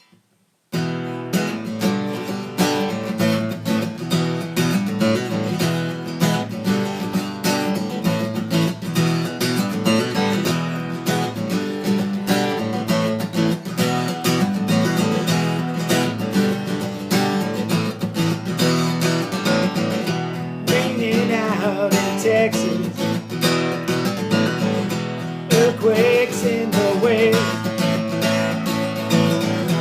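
Acoustic guitar music in a country style, strummed, coming in abruptly about a second in and playing steadily as a song's instrumental opening.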